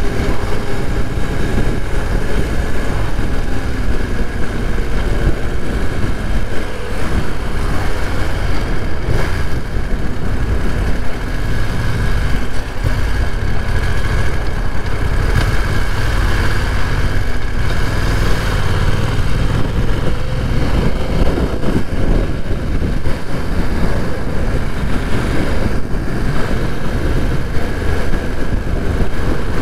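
BMW F900R motorcycle's parallel-twin engine running steadily while being ridden, with a constant low rumble of engine and road noise.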